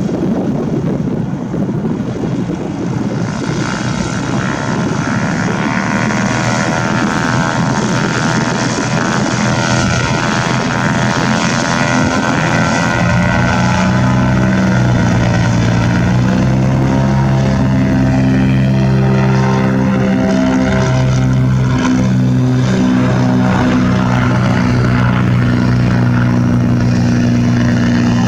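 Propeller aircraft engine running, a steady drone that grows stronger and steadier in pitch about halfway through.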